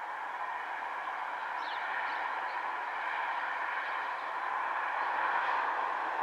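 Distant Northern Class 195 diesel multiple unit approaching: a steady, even noise that grows slightly louder toward the end.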